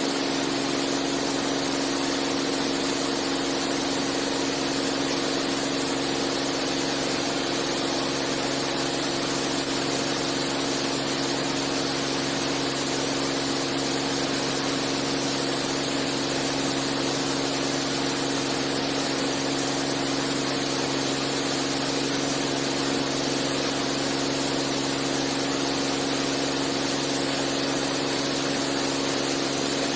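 Six-cylinder piston engine and propeller of a Beechcraft A36 Bonanza droning steadily in the cockpit while the plane climbs after take-off. A constant low hum runs under an even rushing noise, with no change in pitch or level.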